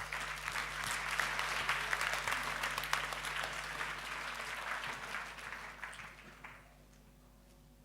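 Audience applauding, the clapping dying away about six and a half seconds in.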